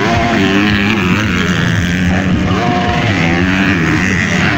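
MX2 motocross bike engines revving hard, the pitch climbing and dropping repeatedly as the riders work the throttle and shift through the gears.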